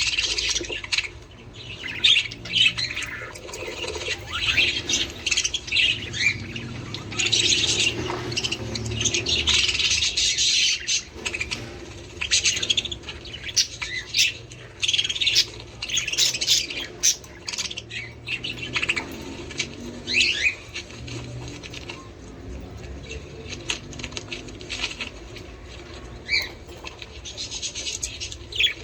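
A flock of budgerigars chattering continuously, with quick overlapping chirps, warbles and squawks.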